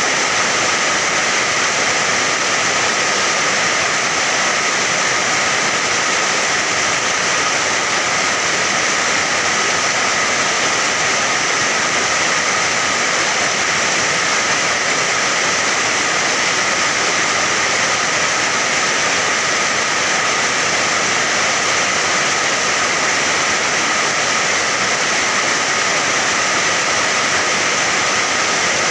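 Steady rain, a dense even hiss with no single drops or gaps standing out.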